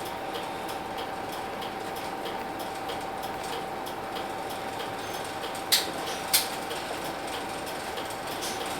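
Inside a Hino Blue Ribbon City route bus standing still: a steady high hum with a regular ticking of about three ticks a second, and two sharp clicks about halfway through.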